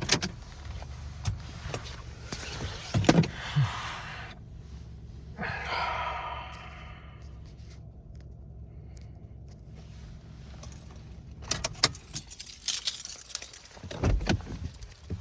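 Car engine running with a low hum while it is parked, with scattered clicks and knocks and a brief whining tone around the middle. Near the end the hum stops and there is a quick run of clicks and jangling keys.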